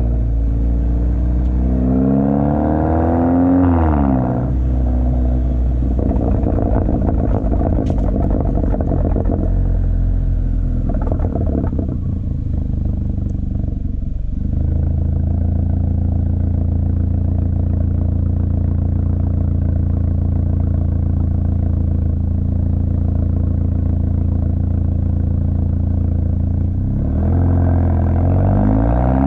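Exhaust note of a 2017 Hyundai Elantra Sport's 1.6-litre turbocharged four-cylinder, running with the second catalytic converter, resonator and muffler deleted to quad tips. The engine climbs in pitch and drops back a few seconds in, holds a steady drone through the middle, and climbs again near the end.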